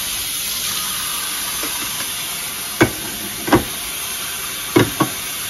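Kitchen work sounds: a steady hiss with four sharp knocks in the second half, as cans are opened and their contents drained.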